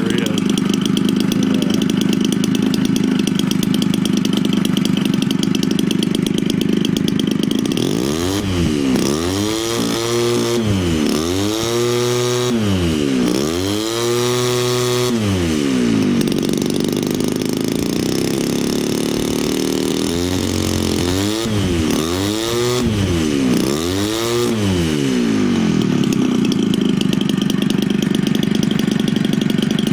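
Homelite 30cc two-stroke gasoline engine, converted from a string trimmer and turning a model-airplane propeller, running steadily. Twice it is revved up and back down in quick runs of about four throttle bursts, settling back to a steady run after each.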